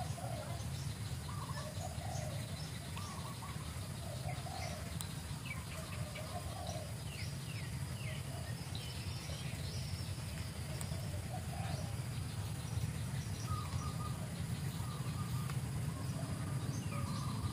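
Birds chirping: short high falling chirps and lower calls scattered throughout, over a steady low rumble of background noise.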